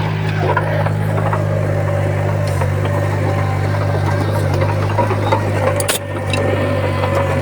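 Komatsu D20P bulldozer's diesel engine running steadily under work, with scattered clanks and rattles and one sharp knock about six seconds in.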